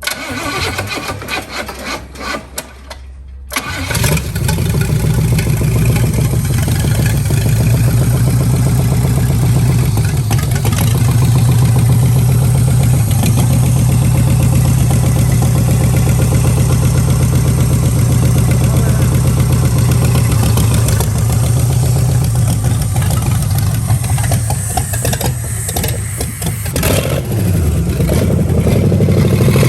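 A junkyard 1977 Pontiac 350 V8, out of the car on a stand, cranks for about three and a half seconds and then catches and runs steadily. Near the end its speed sags for a couple of seconds and then picks back up.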